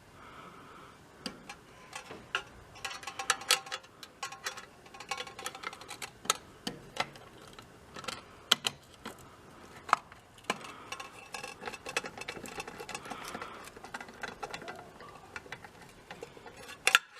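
Hand tools working on metal bicycle parts: irregular metallic clicks and clinks with a slight ringing, as a bracket is fastened onto the bike, with a quick cluster of louder clicks near the end.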